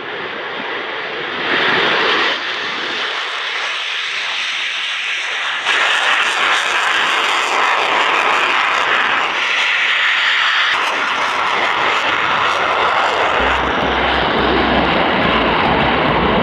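Jet aircraft engine noise, a loud steady roar that jumps in level abruptly a couple of times, with a deep rumble joining near the end.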